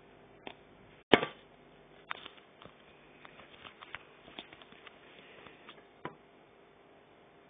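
Scattered small clicks and knocks, the loudest about a second in, with a run of light ticks in the middle, over a faint steady hum.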